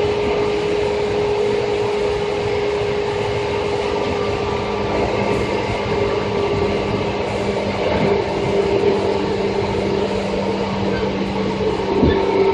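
Electric commuter train set 2453F running at speed: a steady motor whine over the rumble of wheels on rail, with a sharp knock from a rail joint near the end.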